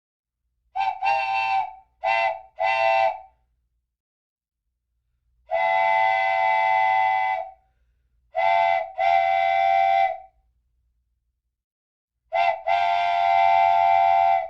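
A horn or whistle blowing a steady chord in blasts: three short toots about a second in, then three longer blasts of about two seconds each, the last two each led by a quick short toot.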